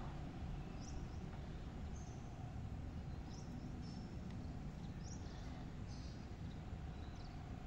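Short, high bird chirps repeating every second or two, faint, over a low steady outdoor rumble and a thin steady hum.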